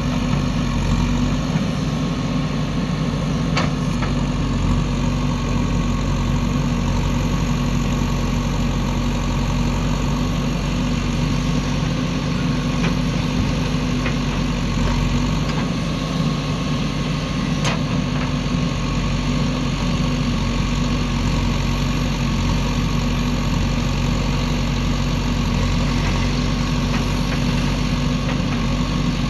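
Diesel engine of a JCB 3DX backhoe loader running steadily at a low, idle-like speed, with a couple of faint brief clicks.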